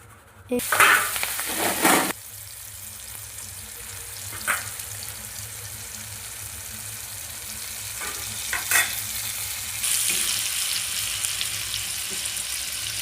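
Turmeric-and-salt-coated pieces frying in hot oil: a loud burst of sizzling for about a second and a half just under a second in, settling into a steady frying sizzle with a few knocks of a spatula against the pan, the sizzle growing louder near the end.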